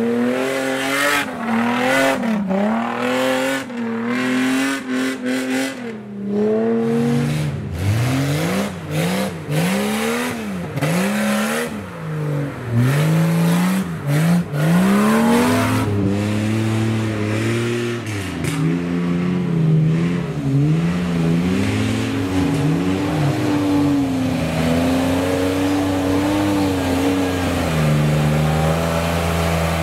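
Off-road 4x4 engine revving up and down over and over as the throttle is worked, with quick swells of pitch about once a second in the middle stretch and short knocks and clatters early on. From about halfway it settles into a steadier, lower drone with only small changes in pitch.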